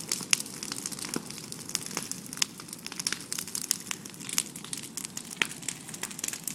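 Fire crackling, with many irregular sharp pops over a steady low hiss.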